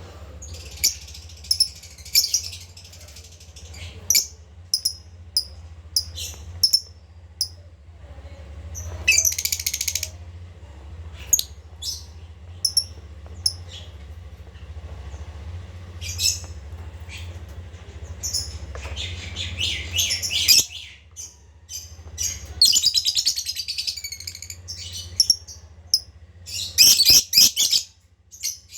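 Lovebird singing: sharp high-pitched chirps, one after another, broken by several bursts of fast squeaky chattering trills a second or two long.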